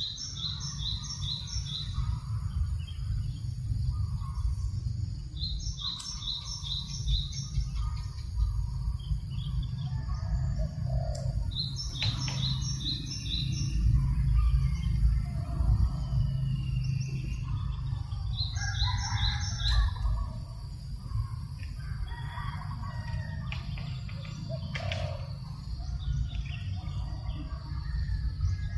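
Birds calling: one repeats a quick phrase of four or five high notes about every six seconds, among other scattered calls. A steady low rumble of wind on the microphone runs underneath.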